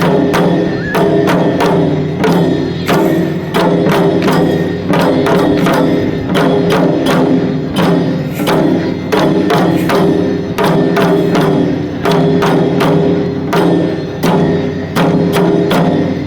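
Shishimai lion-dance accompaniment: fast drum strikes in a driving, repeating rhythm over steady sustained ringing tones, loud and unbroken.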